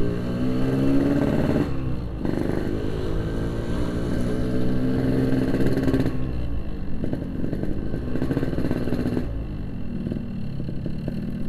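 Yamaha RX-King two-stroke single-cylinder motorcycle engine pulling away under throttle, its pitch climbing through the gears with short dips at the shifts about 2, 6 and 9 seconds in.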